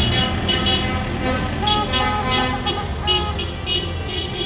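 Vehicle horns tooting over the steady rumble of parade tractors and lorries running.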